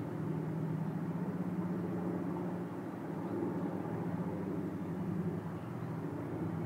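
Piston-engined propeller aircraft droning in a steady low hum that swells slightly and eases.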